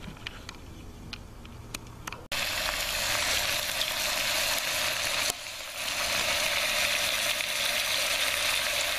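Onions and browned oxtail frying in a cast-iron potjie over coals: a loud, steady sizzle that starts abruptly about two seconds in, after a quieter stretch of scattered crackles. The onions are frying towards a glassy colour.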